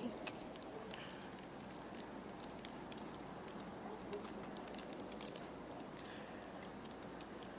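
Wet, sticky snow falling, with light irregular ticks and patter of flakes landing over a steady hiss.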